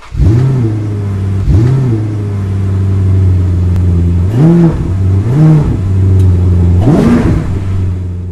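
Car engine sound effect: a steady idle that starts abruptly, with five quick throttle blips that each rise and fall in pitch. The last blip goes highest, and the engine begins to fade near the end.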